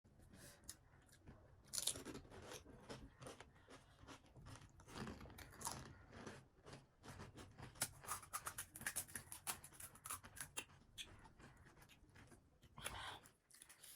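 Pani puri being chewed: the crisp, hollow fried shells crunch between the teeth in quick, irregular crunches that come thickest in the middle of the stretch.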